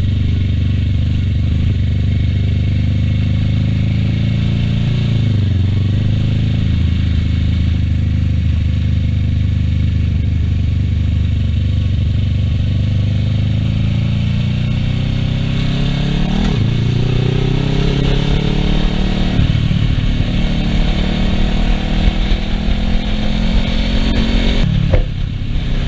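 Kawasaki Ninja 650R's parallel-twin engine running steadily under way, with rushing wind noise. In the second half the revs climb and drop a few times through gear changes.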